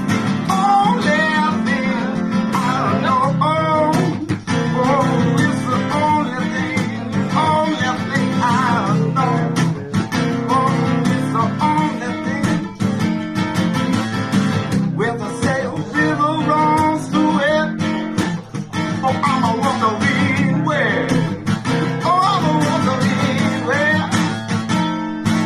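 Guitar music with no lyrics: strummed guitar chords under a lead melody of bent, sliding notes, an instrumental break in the song.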